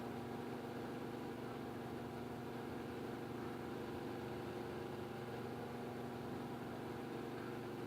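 A steady machine hum, even throughout, made of several constant tones.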